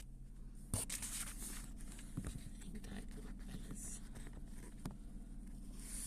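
Rustling and scratching handling noise close to the microphone, with a sharp click about a second in and a few softer clicks after it, over a steady low hum.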